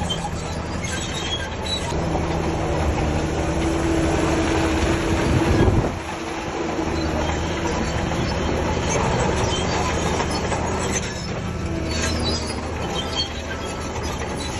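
Shantui DH17C3 crawler bulldozer working: its diesel engine runs under load while the steel tracks squeal and clatter. The engine note climbs to a peak about five and a half seconds in, then drops off suddenly.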